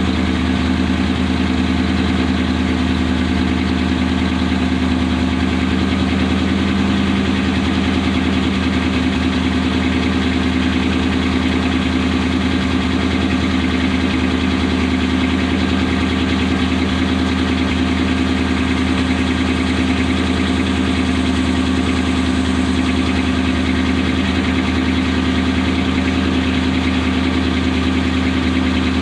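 Car engine idling steadily, heard close to the exhaust pipe under the rear of the car, with no revving or change in speed.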